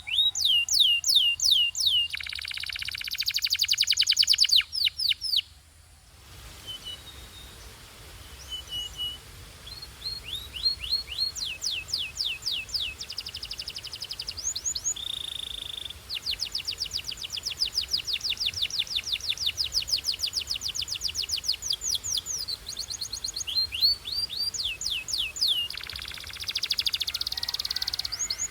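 Canary singing: fast trills of repeated falling notes, a dense buzzing roll early on, and short steady whistled notes, with a brief pause about six seconds in before the trills resume.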